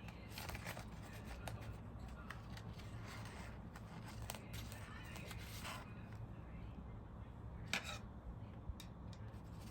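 Faint scattered clicks and light scrapes of small metal parts and a screw being handled and fitted by hand, with one sharper click about three-quarters of the way through, over a steady low hum.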